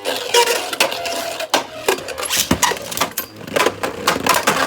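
Two Beyblade spinning tops, a custom 3D-printed Agèma Ares and a Guilty Longinus, spinning in a plastic stadium with a steady whir and clashing again and again in a rapid run of sharp clicks and clacks.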